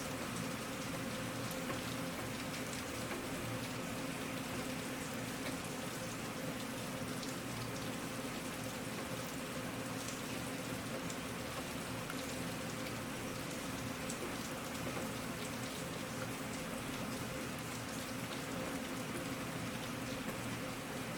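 Steady rain falling: an even hiss with scattered drop ticks, holding at one level throughout.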